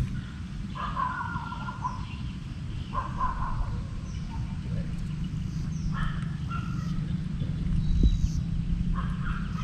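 A bird calling four times at intervals of a few seconds, each call short and repeated, over a low steady hum. A dull thump about eight seconds in.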